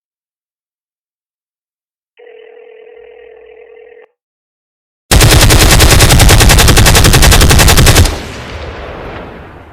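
A telephone ringback tone sounds once for about two seconds. A few seconds later comes a loud burst of rapid automatic machine-gun fire, about three seconds long, which ends sharply and leaves an echoing tail that fades away.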